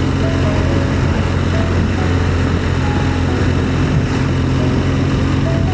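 Motorcycle engine running steadily at cruising speed while riding, with wind noise over it.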